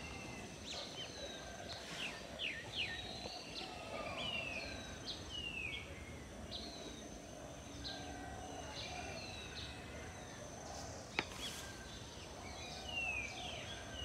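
Garden birds chirping: many short, falling calls, one after another, over a thin steady high tone. A single sharp click sounds about eleven seconds in.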